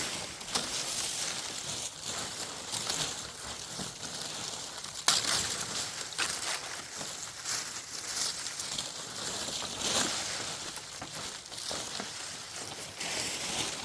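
Outdoor rustling and crunching handling noise, broken by frequent sharp snaps or knocks. The loudest snaps come about five seconds in and again about ten seconds in.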